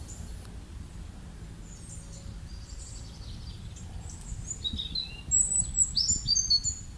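Birds chirping over a steady low background rumble: a few faint chirps at first, then a loud flurry of quick high chirps for the last second and a half or so.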